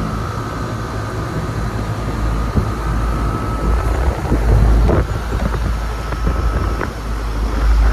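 Carrier rooftop air-conditioning unit running in cooling with its fans on: a steady high whine over a low rumble, with wind buffeting the microphone. A couple of light knocks come about five and seven seconds in.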